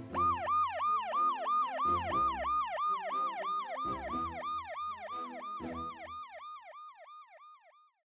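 Emergency-vehicle siren in a fast yelp, rising and falling about three times a second and fading away until it dies out, over soft background music.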